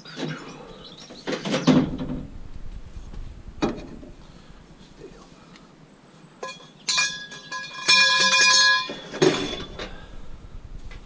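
Scrap metal being handled: several clanks of metal on metal. About two-thirds of the way through, a piece rings with a clear, several-toned ring for about two seconds before a final clank.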